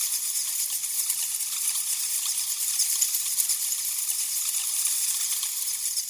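A roosting colony of flying foxes (fruit bats) chattering: a steady, dense crackle of many overlapping short calls.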